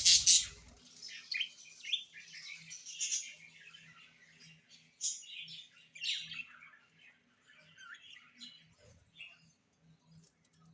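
Pet parrots chirping: a loud, rapid run of pulsed calls at the very start, then many short high chirps that grow sparser and fainter toward the end.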